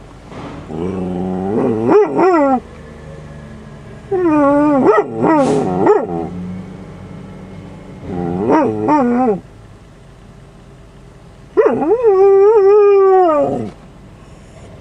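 Dog howling four times, long wavering howls with pauses between them; the last one slides down in pitch at its end. The dog is howling at the noise of a garbage truck down the street.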